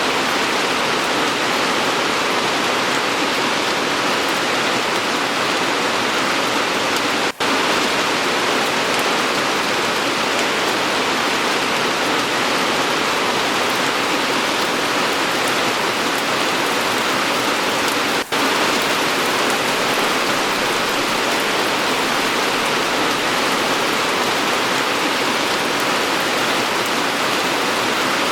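Steady, even rain falling, with a dense hiss of drops. It drops out for a split second twice, about 7 and 18 seconds in.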